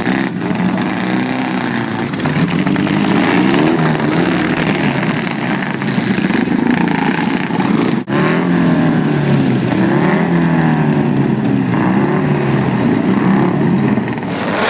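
Several vintage racing motorcycle and sidecar-outfit engines running and revving at once, their pitch rising and falling as they are push-started and ridden off. The sound drops out sharply for an instant about eight seconds in.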